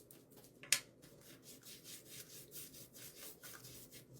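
Paintbrush scrubbing over a wooden shelf in short, scratchy back-and-forth strokes, about three a second, with one sharper tap just under a second in.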